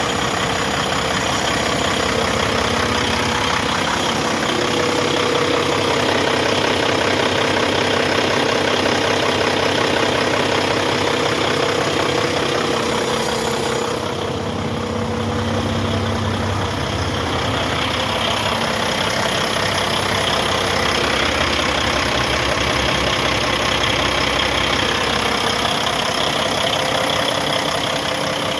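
Kenworth T700 semi truck's diesel engine running steadily at idle. About halfway through, the sound turns duller and deeper for a few seconds.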